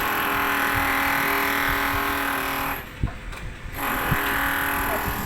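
Stick (arc) welding on galvanized iron pipe: a steady crackling hiss that breaks off a little before halfway, then strikes up again about a second later.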